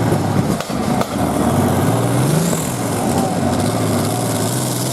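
Small pulling tractor's engine running steadily under load as it drags the weight sledge, its pitch rising slightly about two seconds in.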